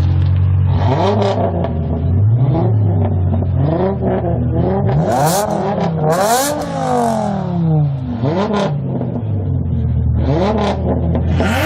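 BMW M5 E60's V10 engine being revved in a series of throttle blips from idle, its pitch sweeping up and falling back about half a dozen times. The longest, highest rev comes about halfway through, and the engine settles back to a steady idle between blips.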